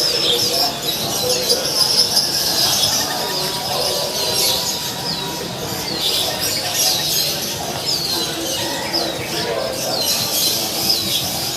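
Many caged songbirds chirping together, with a short falling chirp repeated every second or so, over a murmur of people talking.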